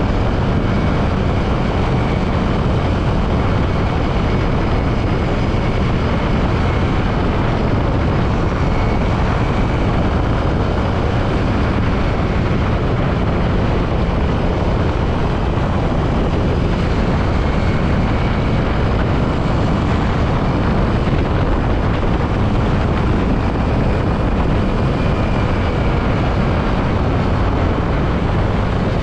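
Yamaha WR155 motorcycle on the move: steady, loud wind and road rush with the engine running underneath, even and unbroken throughout.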